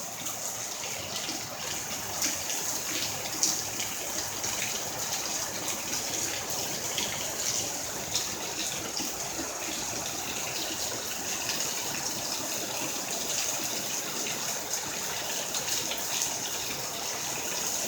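Heavy rain falling steadily: a dense, even hiss of rain with many single drops ticking and splashing through it.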